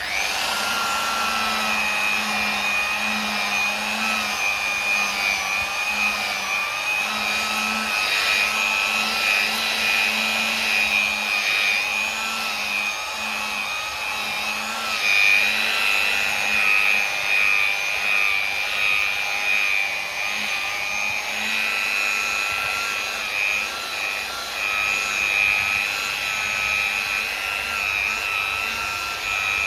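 Electric machine polisher running steadily on car paintwork, a high motor whine that wavers slightly in pitch as the pad is worked over the panel.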